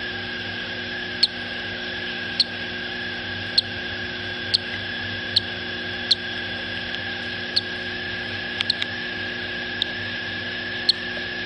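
Short, sharp, high-pitched chirps from small parrots in a nest with hatching eggs, about one a second at uneven spacing, a few coming close together just before the ninth second. They sit over a steady electrical hum and a constant high whine.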